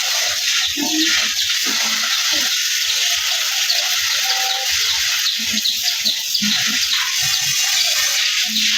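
Running water splashing steadily while a motorbike is being washed, a continuous rushing hiss with uneven lower splashes.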